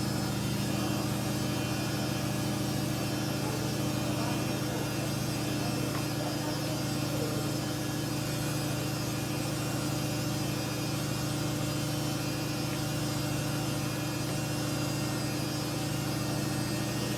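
Samsung washing machine on its spin cycle, a steady hum with several held tones. The owner thinks it comes from worn drum bearings in the 14-year-old machine, showing up when the load is badly unbalanced.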